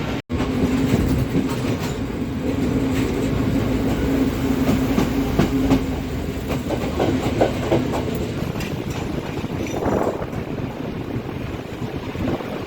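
Train on the move with wheels clattering over rail joints and a steady drone that fades out about six seconds in. The audio drops out briefly just after the start.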